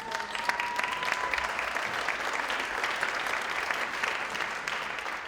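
Audience applauding: a dense clapping that swells within the first half-second, holds steady, then eases off near the end. A single thin whistle sounds over the first second or so.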